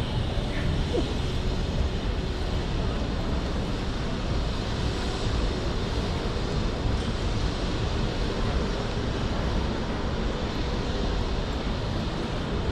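Steady outdoor city noise: an even, unbroken rumbling haze with no distinct events.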